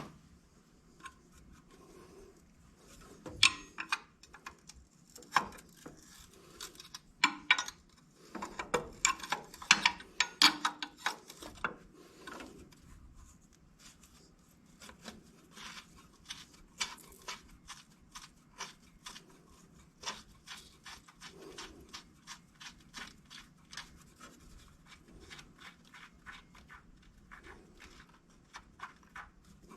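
Hand tools working on metal: irregular clanks and scrapes for the first dozen seconds, then a ratchet wrench clicking steadily, about two or three clicks a second, as one of the steering-shaft mounting bolts on a Ford 545A backhoe is turned out.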